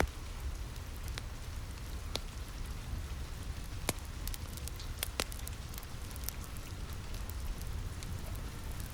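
Steady rain with a low rumble underneath, mixed with a fireplace crackling: a few sharp, irregular pops, the loudest about four and five seconds in.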